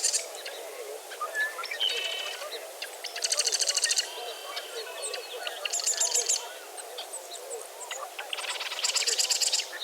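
Dawn chorus of several songbirds: a rapid, high trilling song repeats three times, about every two and a half seconds, among scattered chirps and whistles, over a steady low chatter.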